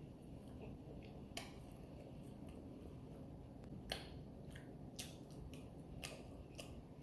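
Someone chewing a chicken wrap close to the microphone: a handful of sharp, separate mouth smacks and clicks over a low steady hum.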